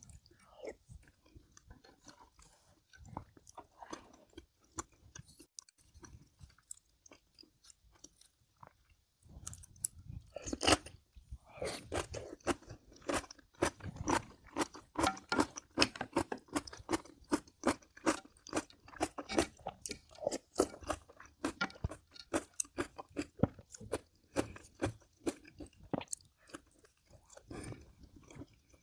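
A person chewing and crunching food close to the microphone. There are faint small sounds at first, then a dense run of rapid crunching chews from about ten seconds in.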